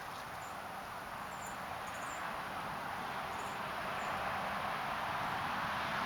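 Faint, short, high-pitched bird chirps, a handful scattered through the first four seconds, over a steady rushing noise that grows gradually louder.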